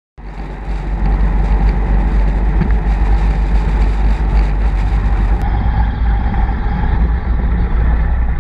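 A vehicle running steadily, a loud, low continuous rumble that cuts in suddenly right at the start.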